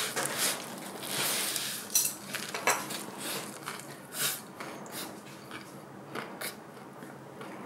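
A mouthful of lettuce wrap with pork being pushed in and chewed close to the microphone: crisp crunching and wet mouth sounds, with sharp clicks scattered throughout.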